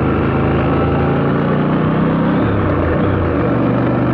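Motorcycle engine running steadily, its note shifting slightly about two and a half seconds in.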